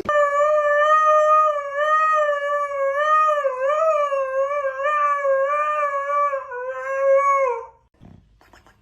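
A dog howling in one long, wavering note for about seven and a half seconds, sliding down in pitch as it ends.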